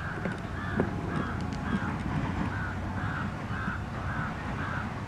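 A bird calling over and over in a steady series of short, harsh calls, about two a second.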